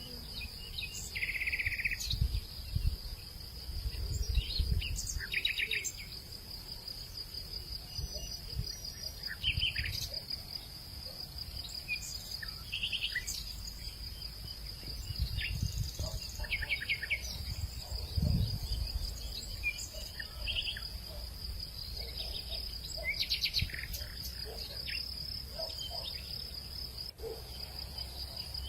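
Evening countryside ambience: a steady high-pitched insect drone throughout, with short bird chirps every few seconds and intermittent low rumbles of wind.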